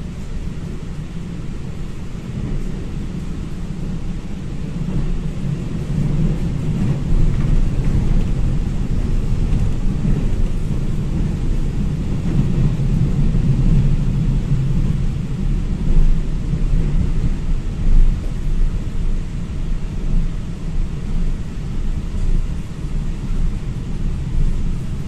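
Low, steady rumble of a Taiwan Railway train running, growing louder about six seconds in, with brief swells near the middle.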